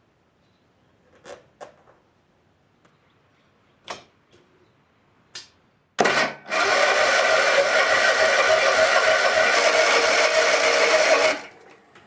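Electric starter cranking the Kawasaki FS651V V-twin mower engine for about five seconds, with a short break just after it begins, and the engine not catching; the owner wonders whether the fuel system has to be pre-filled with fuel. A few sharp clicks come before it.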